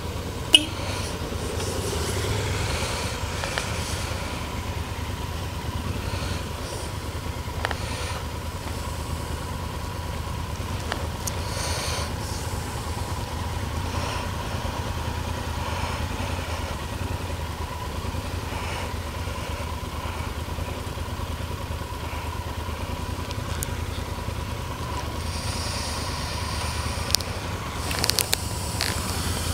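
Adventure-touring motorcycle engine running steadily at low revs while rolling slowly and idling. A sharp click sounds just after the start and a few more near the end.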